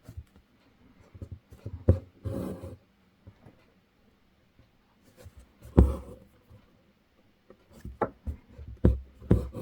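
Hand embroidery: a needle pushed and pulled through fabric held taut in an embroidery hoop, with a few sharp taps on the drum-tight fabric and a short scratchy rasp of thread drawn through.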